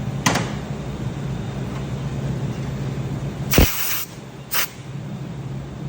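A steady low mechanical hum with a sharp click, then two short bursts of hissing about three and a half and four and a half seconds in, the first one the loudest, with a thump.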